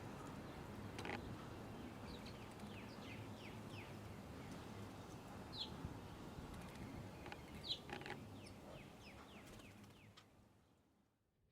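Small birds chirping at a feeder: many short, quick falling chirps, a few louder ones, over faint outdoor background noise that fades out near the end.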